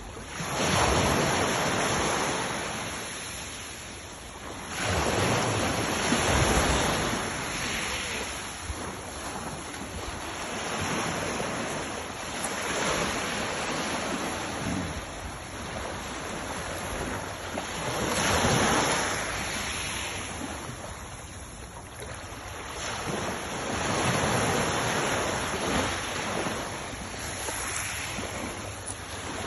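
Sea waves washing onto the shore, the surf swelling and falling away again every five to seven seconds.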